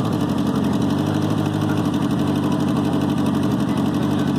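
1985 Honda Gold Wing GL1200's liquid-cooled flat-four engine idling steadily from a cold start with the choke on, just after it has fired.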